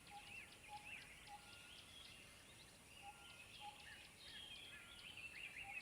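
Faint background birdsong: several small birds chirping, one repeating a short arched note about twice a second for the first second, with other chirps and trills throughout.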